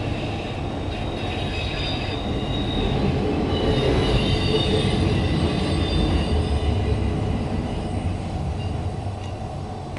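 Freight train rolling past, a steady rumble of cars on the rails that swells in the middle, with a faint high wheel squeal.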